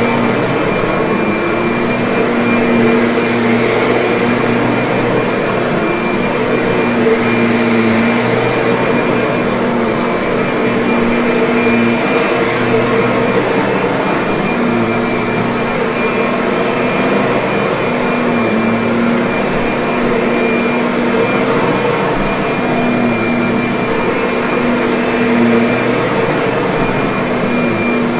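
Kirby upright vacuum cleaner running steadily, a constant loud motor hum. Its low tone swells and fades every few seconds.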